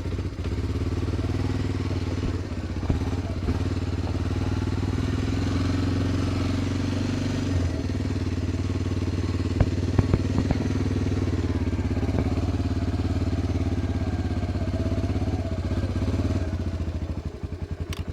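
Engine idling steadily, its even low pulsing drowning out the stream, with a few sharp clicks about three and ten seconds in.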